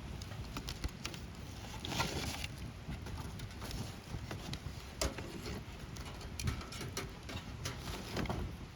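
Wood bonfire crackling with scattered sharp pops over a low steady rumble; a burst of crackling about two seconds in, one sharp pop about five seconds in, and another cluster near the end.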